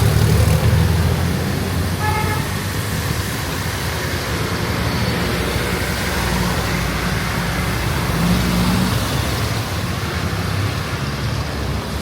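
Street traffic: a motor vehicle's engine rumbles close by, loudest in the first second, over a steady wash of road noise. A short high-pitched tone sounds about two seconds in.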